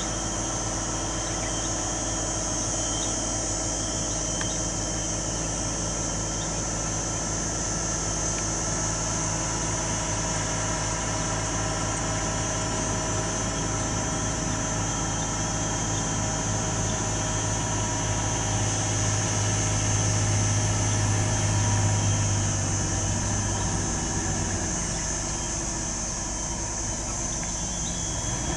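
Heavy truck's diesel engine running near idle, mostly steady, swelling louder about twenty seconds in and easing off again, under a constant high hiss.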